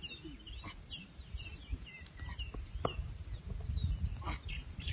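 Small birds chirping repeatedly in quick, short notes over a low outdoor rumble.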